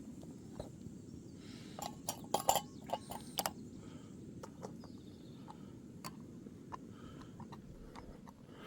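A metal utensil clinking against a cooking pan of sausage, a quick cluster of sharp ringing taps between about two and three and a half seconds in, with a few lighter taps later, over a steady low rumble.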